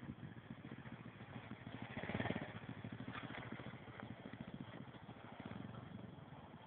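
A 125cc dirt bike engine running, getting louder about two seconds in and then easing off again.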